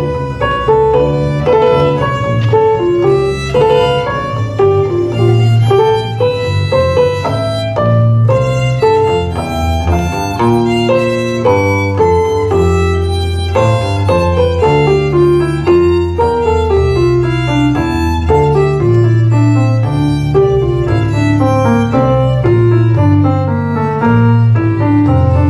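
Baroque-style chamber music: a violin plays quick running notes over a keyboard and a bass line, with several stepwise descending sequences.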